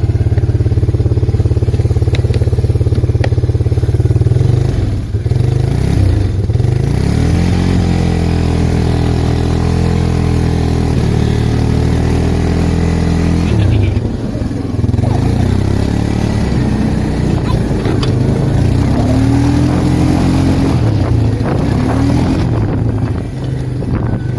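Arctic Cat 366 ATV's single-cylinder four-stroke engine running under way. It climbs in pitch as the machine speeds up, holds steady, eases off about two-thirds of the way through, then rises and falls with the throttle.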